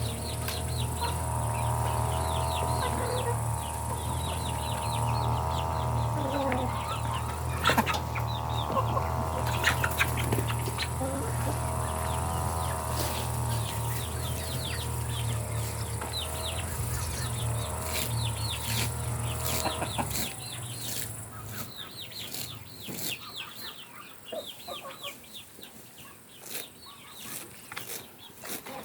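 Chickens clucking and calling as they walk about, with many short, quick calls. A steady low hum runs underneath and stops about two-thirds of the way through, and there are a few sharp knocks near the middle.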